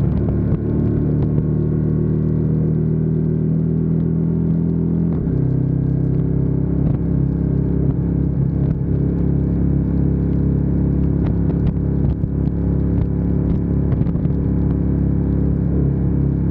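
Ducati Diavel 1260S's 1262 cc L-twin engine running steadily under way, with a shift to a slightly lower pitch about five seconds in.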